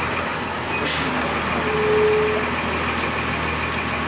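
2002 Blue Bird CS transit bus with its Cummins ISC diesel engine running steadily. About a second in there is a short hiss of air, from the air brakes. It is followed shortly after by a brief beep.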